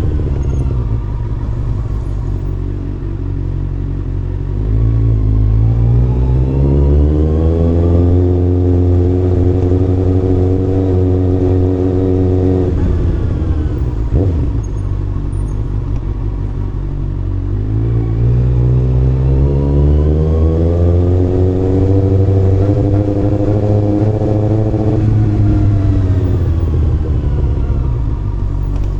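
Kawasaki ZX-6R inline-four engine heard from the rider's seat. The revs fall off at first, then climb as the bike accelerates about five seconds in, hold steady, and drop sharply as the throttle closes. The same pattern repeats: it pulls up again about halfway through, holds, and falls back near the end.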